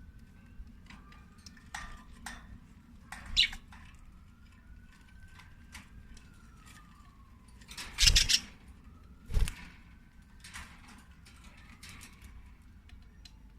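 Pet budgies chirping sporadically among scattered small clicks and taps, with a short sharp chirp about a third of the way in and two louder bumps just past the middle.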